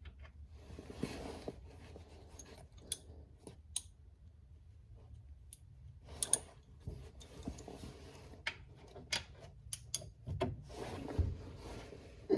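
Scattered metallic clicks, clinks and short scrapes of a 17 mm wrench being fitted to and worked on the oil drain plug under the car, with rustling of handling between them.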